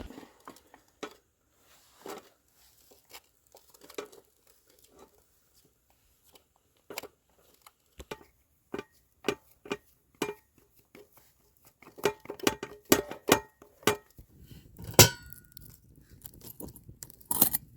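A series of light clicks or taps on a small hard object that rings briefly at the same pitch each time. They are sparse at first, then come quicker and more regularly in the middle, and a single louder knock lands about three quarters of the way through.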